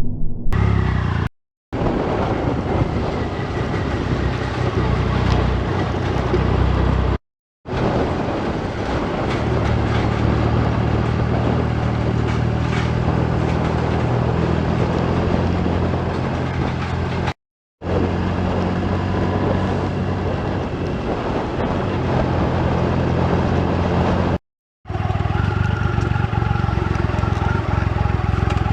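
Motorcycle running steadily at road speed, its engine note under a dense rush of wind and road noise. The sound drops out abruptly four times where the footage is cut.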